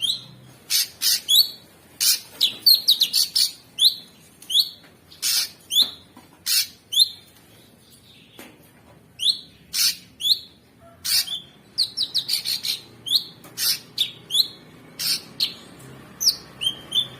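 Cucak sungkok singing a rapid, rough string of sharp chirps and short downward-sweeping whistles, almost without pause, with a brief lull about eight seconds in.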